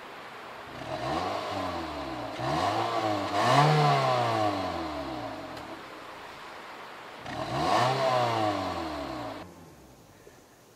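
Toyota Corolla's 1.6-litre 3ZZ-FE inline-four engine being revved in short blips from idle, four rises and falls with the highest about three and a half seconds in. It settles back to a quiet idle near the end.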